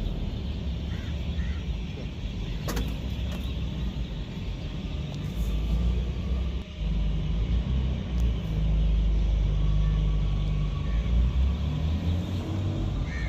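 Low rumble of a motor vehicle running, growing louder about halfway through and staying strong for a few seconds.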